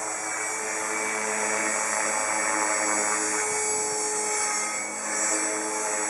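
Align T-Rex 450 Pro DFC electric RC helicopter in flight: the high whine of its brushless motor and gears over the whoosh of the rotor blades, steady with small shifts in pitch.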